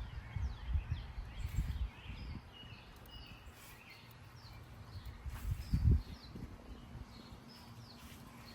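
Small birds chirping and twittering repeatedly, with a low rumbling in the first two seconds and a louder low bump about six seconds in.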